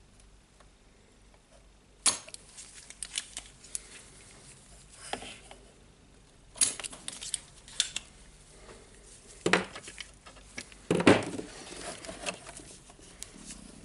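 Hand tools and small metal parts handled on a workbench: a scatter of sharp clicks, taps and knocks at irregular intervals, the loudest near the end.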